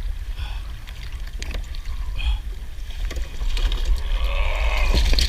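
Heavy crab pot being hauled up by hand beside a kayak: scattered knocks and clicks from the line and the pot, with a louder rush of water in the second half as the pot nears the surface. A steady low rumble of wind on the microphone runs underneath.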